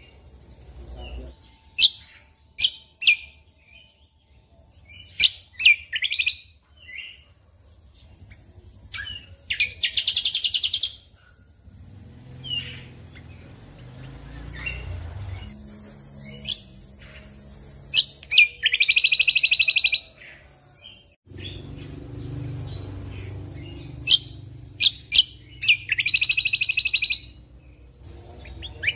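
Cucak kombo (kecial kombok) singing: clusters of short, sharp whistled notes broken by three longer buzzy trills, about ten, eighteen and twenty-six seconds in, over a low background rumble.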